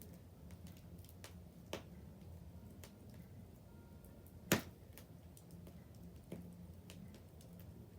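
Wood bonfire crackling quietly with scattered small pops over a low steady hum, and one sharp, louder pop about four and a half seconds in.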